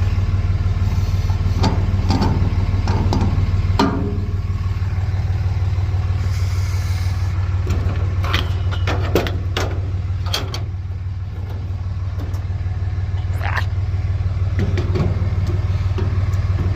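Large tractor diesel engine idling steadily, with scattered short clicks and knocks over it.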